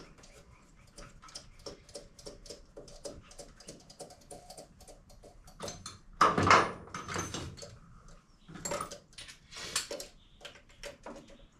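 Hand ratchet wrench clicking in a quick, even series, about four clicks a second, for the first five seconds. After that come a few louder clunks and clatters of tools on metal, the loudest about six seconds in.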